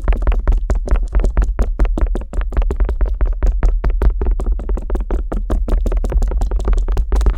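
Stainless steel ear pick scratching and tapping rapidly on the silicone ear of a binaural microphone, several sharp strokes a second, over a steady deep rumble from the pressure on the mic.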